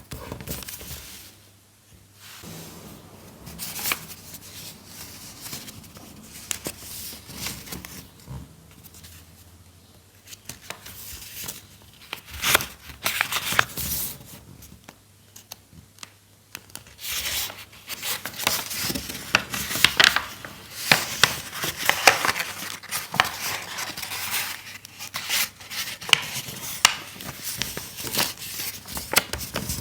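Paper being handled, cut and folded close to the microphone: irregular rustles, crinkles and snips like scissors cutting paper. They are sparse at first and come thicker and louder over the second half.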